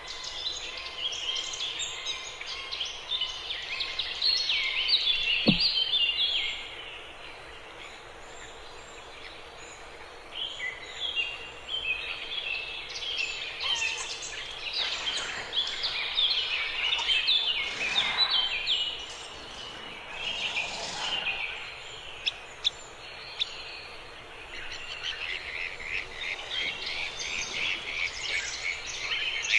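A flock of many birds chirping and twittering at once, a dense, overlapping chorus of short high calls that swells and fades in waves, with a quieter lull about a third of the way through.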